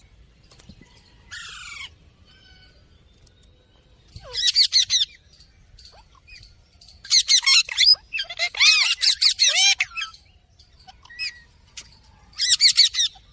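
Bird calls: about five bursts of rapid, repeated high notes, each lasting around a second, separated by short quiet gaps.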